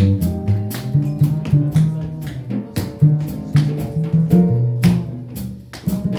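Live jazz combo of guitar, double bass and drums playing, with a bass line of held notes under plucked guitar notes and frequent sharp percussive hits.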